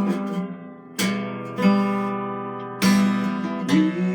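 Guitar strumming chords in an instrumental passage, with about five sharp strums, each left to ring into the next.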